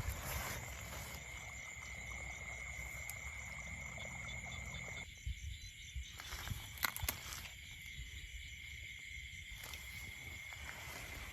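Insects trilling: a steady high buzz with a faster pulsing chirp above it. A few sharp clicks come about six to seven seconds in.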